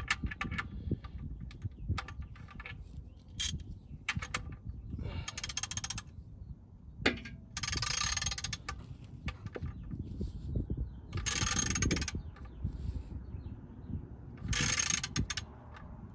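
Socket ratchet clicking in four short runs of rapid clicks, with scattered single clicks between, as the oil drain plug is tightened with a 13 mm socket.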